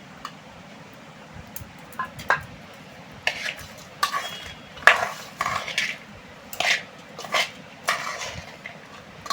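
A spoon scraping and clinking against a bowl as aloo kabli (potato and chickpea chaat) is stirred and mixed, in a run of short strokes that starts about two seconds in and grows busier.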